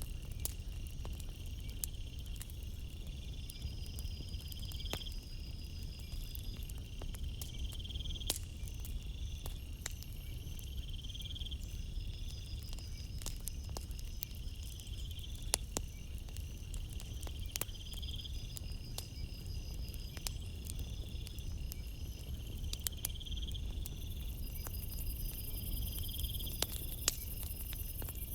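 Campfire crackling, with scattered sharp pops over a low steady rumble, while night insects chirp: a high chirp repeating about every two seconds, and a high-pitched insect hiss joining near the end.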